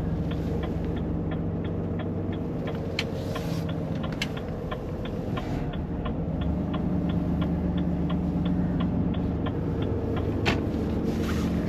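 Lorry's engine running, heard from inside the cab, with the turn-signal indicator ticking steadily about three times a second until it stops near the end, followed by one louder click.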